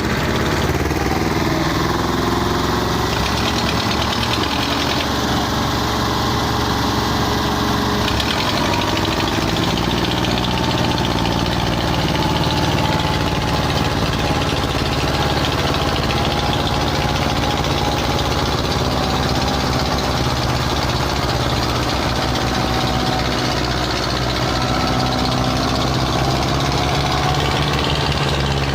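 Tractor diesel engine running steadily, with its pitch shifting about nine seconds in.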